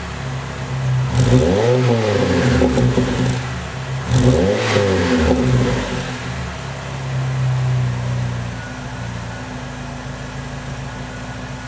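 Chrysler PT Cruiser four-cylinder engine with a dual exhaust, blipped twice: the pitch rises and falls about a second in and again about four seconds in, then it settles back to a steady idle.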